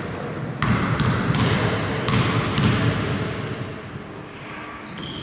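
A basketball being dribbled on an indoor court, about five bounces in the first three seconds, over a steady background murmur of the hall.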